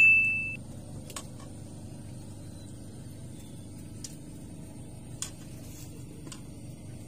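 A short bright single-tone chime from video editing, loud at the start and fading within about half a second, laid over a steady low background rumble with a few faint ticks.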